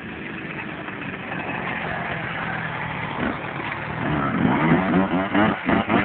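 Motocross motorcycle engines running and revving, growing louder about two-thirds of the way in, with the pitch wavering up and down.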